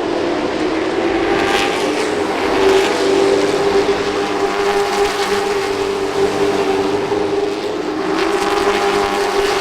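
Late model race cars running at speed on a short oval, their V8 engines blending into one steady high-revving note. The sound swells as cars come close about a second and a half in and again near the end.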